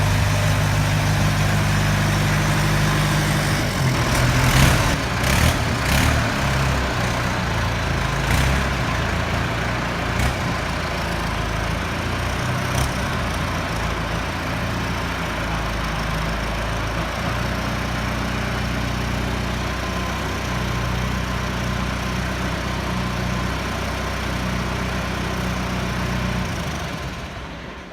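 Truck engine idling steadily, its note shifting slightly about three and a half seconds in. A few sharp clicks or knocks come over it between about four and thirteen seconds in, and it fades out at the end.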